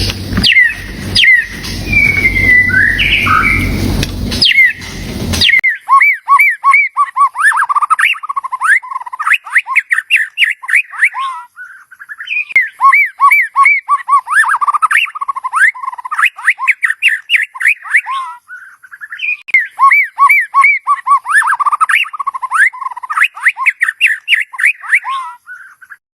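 White-rumped shama calling: three bouts of rapid, repeated whistled notes with short pauses between them, after a few seconds of background hiss with scattered whistles.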